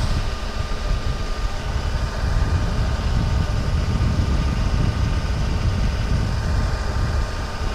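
John Deere 2038R compact tractor's diesel engine running steadily as the tractor drives slowly, with a deep rumble that swells a little in the middle.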